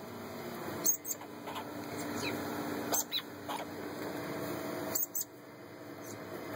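Young rescued birds giving short, squeaky calls, repeated about every two seconds, with a few brief falling chirps between them.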